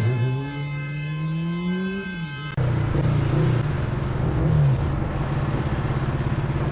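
Motorcycle engine revving with its pitch slowly rising. About two and a half seconds in, it cuts abruptly to another engine running steadily with a slight dip in pitch.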